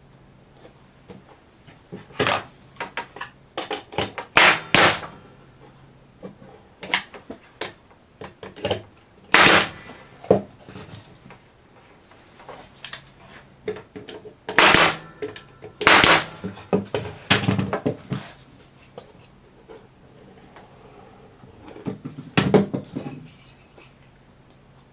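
Irregular knocks, clicks and clatter of cedar fence-picket pieces being handled and fitted together on a workbench, with several louder sharp bangs among them.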